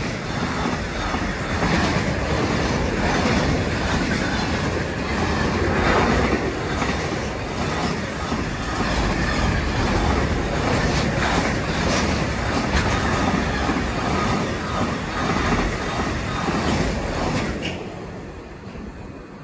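Container freight train passing at speed, its wagon wheels rolling over the rails with a continuous rumble and repeated knocks. The noise drops away sharply near the end as the last wagon clears.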